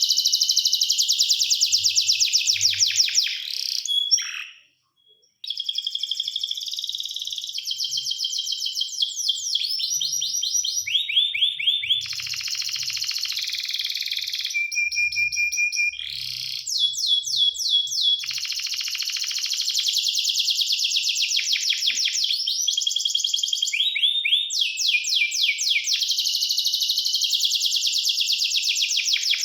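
Domestic canary singing a long song of fast trills and rolling repeated notes, with a few held whistled tones and a short break about five seconds in.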